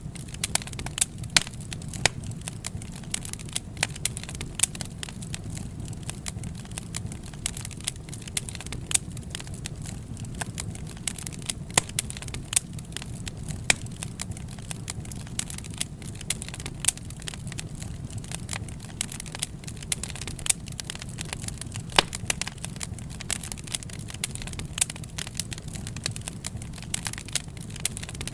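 Wood fire crackling, with rapid small clicks and frequent louder pops over a steady low rumble of burning.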